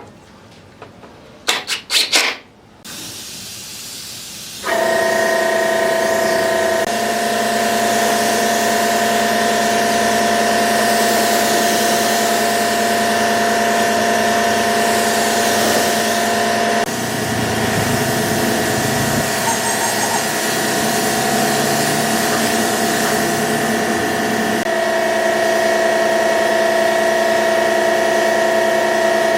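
A few sharp clicks, then from about five seconds in an electric power tool running steadily: a loud, even whine over a hiss, shifting slightly in tone a few times.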